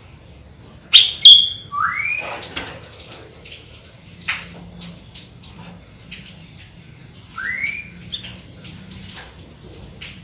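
Sooty-headed bulbul singing: two sharp loud notes about a second in, then a rising fluty whistle, repeated about seven seconds in, among softer chirps and clicks.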